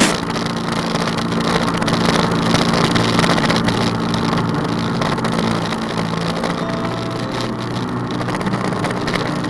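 Original 1989 Evinrude 150 hp outboard running steadily as the bass boat goes along: an even engine hum under a noisy rush.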